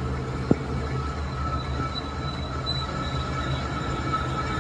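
Diesel truck engine running steadily with a low rumble and a constant high-pitched whine, with one sharp click about half a second in.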